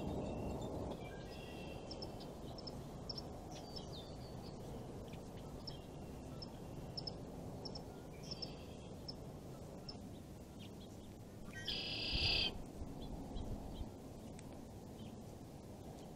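Wild birds calling, with short high chirps and whistled notes scattered throughout over a steady low background hiss, and one louder, harsher call about twelve seconds in.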